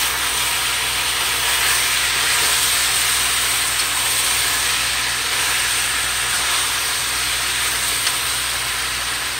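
Chicken pieces and chopped vegetables sizzling steadily in a hot pot as they brown.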